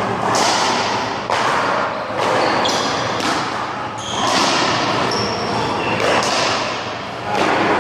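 Rubber handball rally: about half a dozen sharp smacks, one every second or so, as the ball is struck by hand and hits the wall and the ground.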